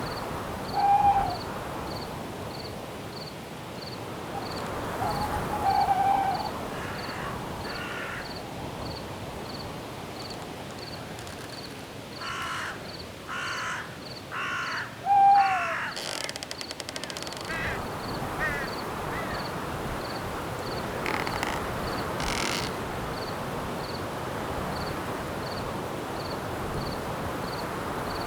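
Night forest ambience: steady wind in the trees under an insect chirping at an even pace, an owl hooting three times, and a run of four crow caws about halfway through.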